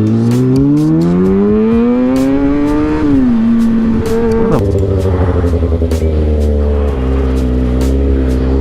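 Motorcycle engine accelerating, its pitch rising for about three seconds, then dropping twice as the throttle comes off and settling into a steady run. Background music with a steady beat plays over it.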